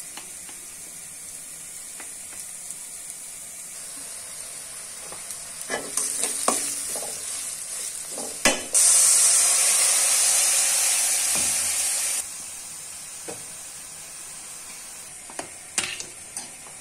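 Sliced onions and green chillies frying in goat fat in a wok, with a steady sizzle. From about six seconds in a spatula stirs and knocks against the pan, and after a sharp knock near the middle the sizzle flares much louder for about three seconds before settling back; a couple more knocks come near the end.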